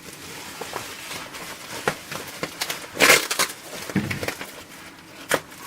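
Scissors cutting open a parcel's packaging in a few irregular snips, with rustling of the wrapping; the loudest cut comes about three seconds in.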